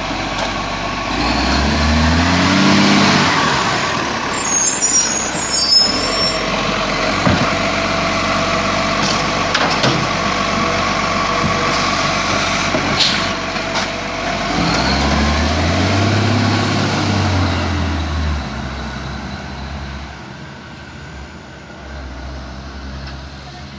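Garbage truck working at the kerb: its engine revs up and back down twice, with a brief high hiss about four seconds in and several knocks and clatter in between, then the sound fades near the end.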